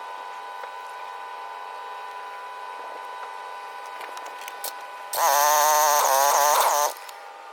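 A power tool runs in one loud burst of just under two seconds, about five seconds in, its pitch wavering, over a faint steady hum.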